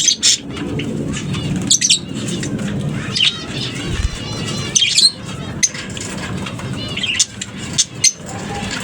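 A colony of lovebirds chattering, with many short, sharp high-pitched chirps and calls overlapping throughout, over a steady low background noise.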